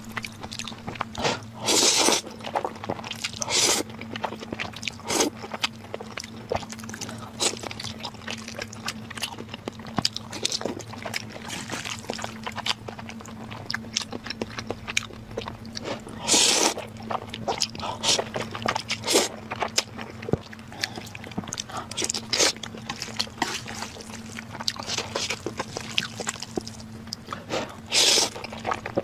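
Close-miked eating sounds: a person biting, crunching and chewing food in a dense run of irregular clicks and crackles, with a few louder, longer noisy bursts scattered through. A steady low hum sits underneath.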